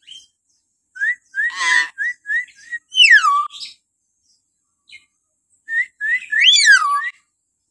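Hill myna giving shrill whistles: runs of short rising notes, each twice topped by a loud whistle sliding down in pitch, with a harsh rasping note about one and a half seconds in.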